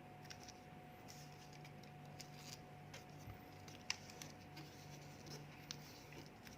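Faint crinkling and small ticks of a sheet of origami paper being folded and creased by hand, with one sharper tick about four seconds in, over a low steady hum.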